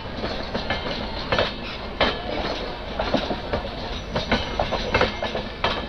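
Express passenger train of LHB coaches passing close by: a steady rumble of wheels on rail, broken by irregular clicks as the wheels cross rail joints.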